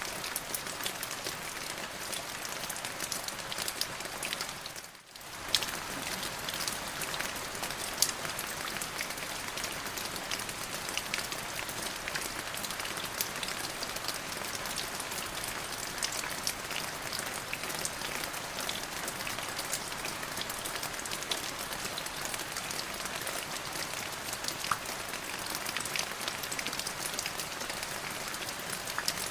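Steady rain falling on a surface, with many individual drops ticking through the hiss. The sound briefly drops away about five seconds in, then returns at the same level.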